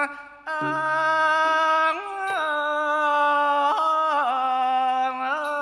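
Thai classical singing: one voice holding long notes and sliding between them, with a short break near the start. A low accompanying note sounds and fades just after the break.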